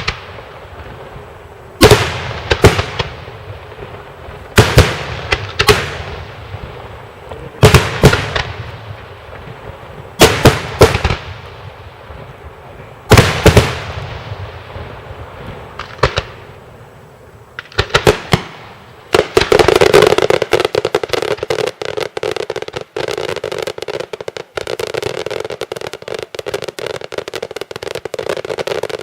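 Daytime fireworks: loud bangs going off mostly in pairs about every three seconds, each trailing off in echo. About two-thirds of the way through they give way to a dense, continuous rapid crackle of many firecracker reports.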